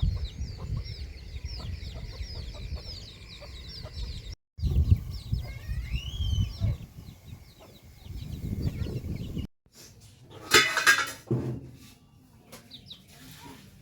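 Chickens calling: many thin, high cheeps in quick succession, a rising call about six seconds in, and one loud call about ten seconds in. A low rumble lies under the first nine seconds and breaks off abruptly twice.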